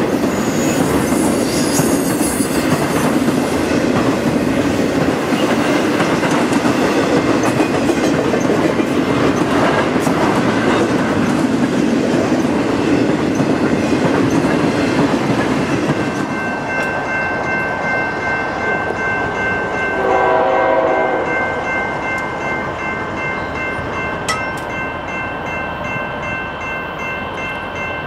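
BNSF intermodal freight train rolling past: flatcars loaded with trailers and containers rumble and clatter on the rails. About 16 s in the rolling noise drops away and steady high ringing tones come in. A short horn note sounds about two-thirds of the way through.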